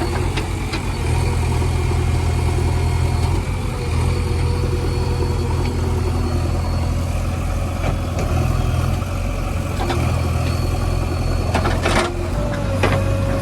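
JCB 3DX backhoe loader's diesel engine running steadily, its low note swelling and easing a few times as it works. A few sharp clanks come near the end.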